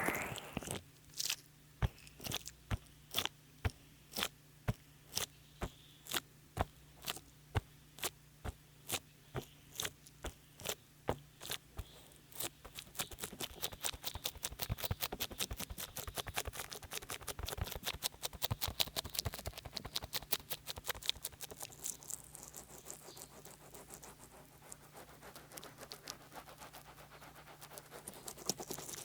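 Oil massage sounds from heavily oiled hands working close to a binaural microphone, wet and squelching from too much oil. The strokes start as regular sharp squelches about twice a second, then about twelve seconds in turn into faster, continuous squishing and rubbing.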